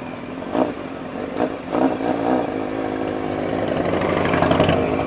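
Honda CBX 750's inline-four engine running on the move. It rises under throttle through the second half, then drops off sharply just before the end.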